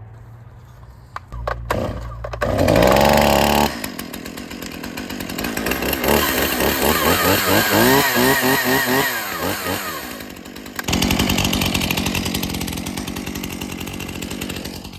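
Stihl MS271 50 cc two-stroke chainsaw starting up, then revved up and down several times with its pitch rising and falling. It dips briefly, then runs steadily at high revs.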